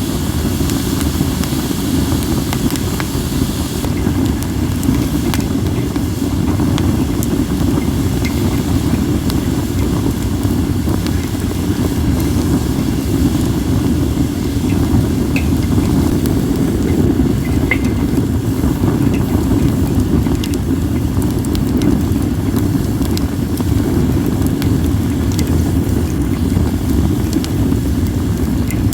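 Wind rumbling steadily on the microphone over a wood campfire of acacia and other firewood, with sparse, faint crackles and pops from the fire.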